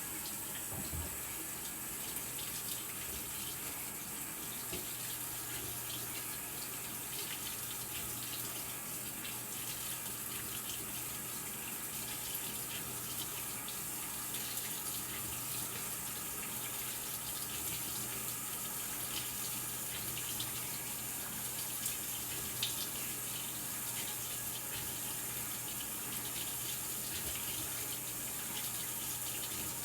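Maytag Bravos XL top-load washing machine filling: a steady rush of water pouring into the tub, with a low steady hum underneath.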